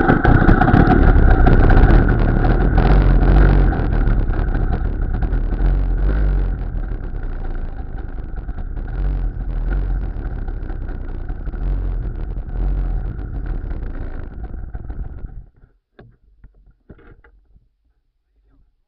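Two-stroke engine of a Muravei motor tricycle running, loud at first and growing gradually quieter, then cutting off suddenly about fifteen seconds in. A few faint knocks follow.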